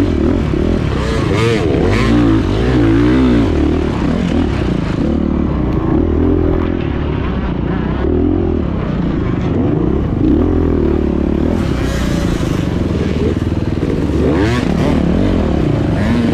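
2024 Beta 430 Race Edition dirt bike's single-cylinder four-stroke engine, revving up and down over and over as it is ridden off-road, with a few short knocks from the bike over rough ground.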